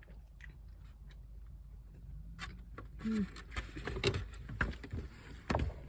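Close-up eating sounds: chewing with small wet clicks and crackles, beginning about three seconds in, over a low steady hum.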